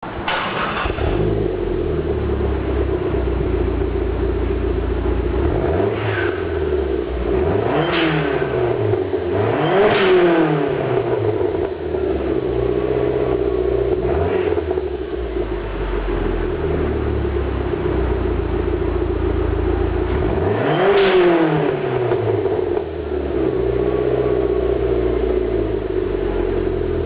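Dodge Neon SRT-4's turbocharged 2.4-litre four-cylinder through a 3-inch mandrel-bent downpipe-back exhaust and full-size Magnaflow muffler, idling with a steady drone and revved in about five quick blips, each rising and falling back to idle, three of them bigger than the others.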